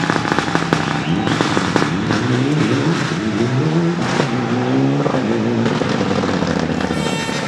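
Rally car engine revved repeatedly, its pitch climbing and dropping with each blip of the throttle. Sharp pops and crackles come from the exhaust throughout.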